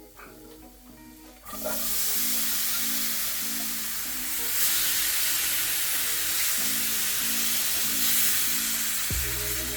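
Food frying in a hot pan, sizzling loudly. The sizzle starts suddenly about a second and a half in, as ingredients go into the oil, and dies down near the end.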